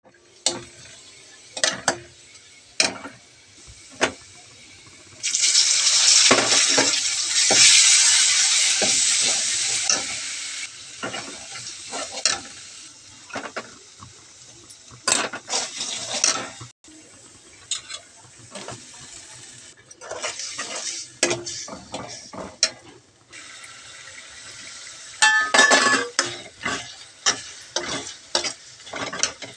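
Onions, then masala and tomatoes, frying in oil in an iron kadai, with a metal spoon clinking and scraping against the pan as it is stirred. The sizzling swells up in several spells lasting a few seconds each, between many sharp spoon knocks.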